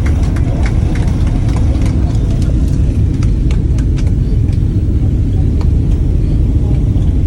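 Steady low rumble of a Boeing 767-300 heard from inside the cabin as it rolls on the ground after landing, with scattered passenger hand claps that thin out about halfway through.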